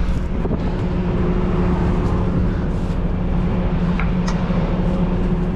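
Peterbilt 389 semi truck's diesel engine idling steadily, with a couple of light clicks about four seconds in.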